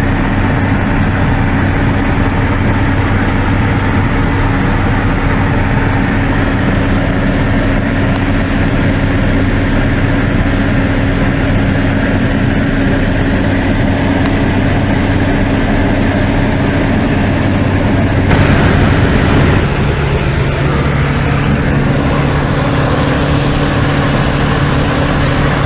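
Light aircraft's piston engine and propeller droning steadily inside the cabin. About three-quarters of the way through, the engine note shifts abruptly to a different pitch, with a brief louder rush.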